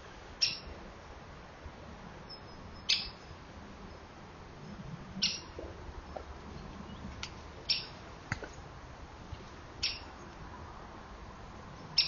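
A bird's short, high call repeated at an even pace, about every two and a half seconds, six times, over a steady hiss, with a single faint click about eight seconds in.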